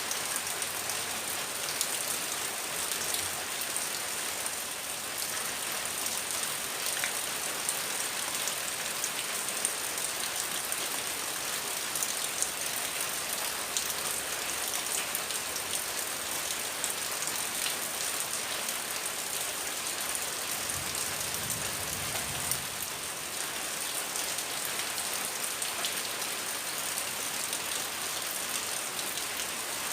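Heavy rain falling steadily: a dense, even hiss with many single drops ticking on surfaces.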